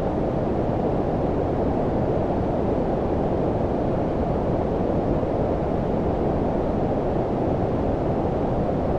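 Steady low-pitched synthetic noise of the brown-noise kind, with most of its energy below about 1 kHz and little hiss above. It does not change.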